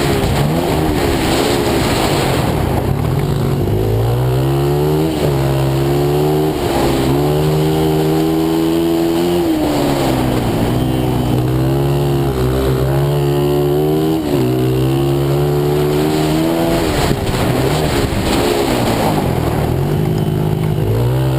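Pit bike engine ridden hard around a track, its pitch climbing as it revs up and dropping again every few seconds, over and over, as the rider accelerates and backs off.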